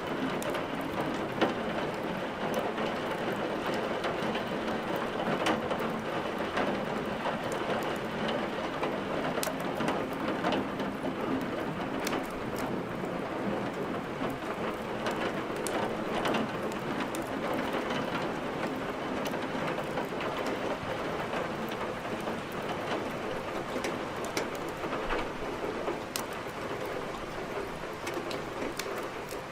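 Steady, even rain, with scattered sharp crackles of burning firewood from a fireplace mixed in.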